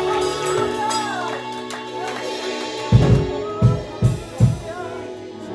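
Church music: held keyboard chords with a wavering singing voice over them, then four heavy drum hits about three seconds in.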